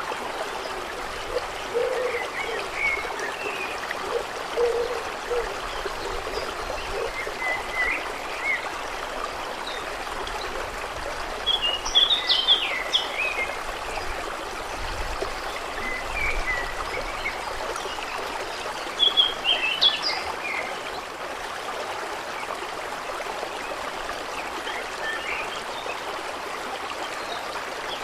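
Water trickling and gurgling steadily, with brief high-pitched sounds clustered about twelve seconds in and again about twenty seconds in, the loudest moments.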